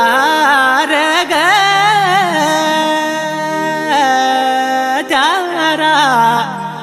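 Kumaoni folk song music: an ornamented melody that wavers and bends in pitch over a steady held drone.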